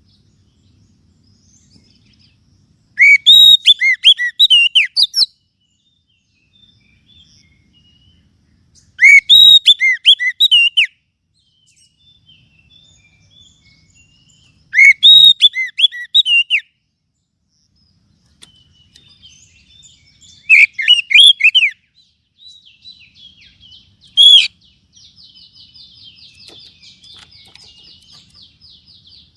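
Oriental magpie-robin (kacer) calling: loud phrases of varied, sweeping whistled notes about every six seconds, five in all, then a faint, fast, even trill near the end.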